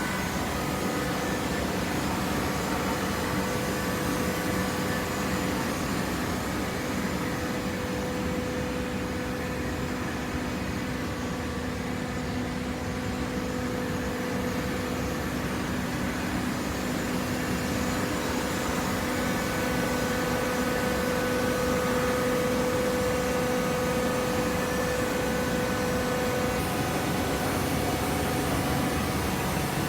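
Hydraulic vertical paper baler running: a steady machine hum from its motor and hydraulic pump, with a faint whine that grows a little stronger in the last third.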